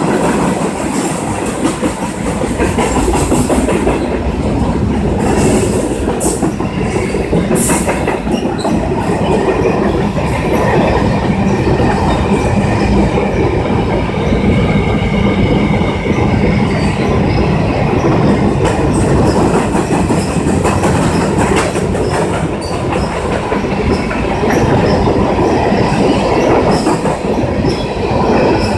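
CN train's rail cars rolling past close by, a steady rumble with wheels clicking over rail joints and faint wheel squeal in the middle.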